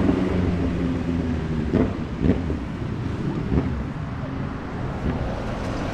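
A superbike's engine note fading as it pulls away, leaving low street traffic noise.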